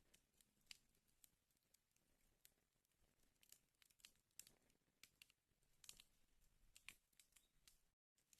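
Faint crackling of a wood fire in a fireplace: irregular sharp pops and snaps over a soft hiss, with a moment of dead silence near the end.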